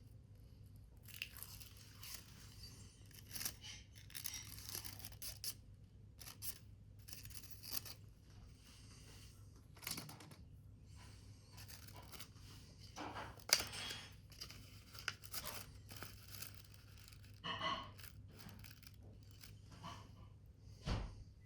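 Paper being handled and cut by hand: short, irregular bursts of rustling, crinkling and tearing. A steady low hum runs underneath.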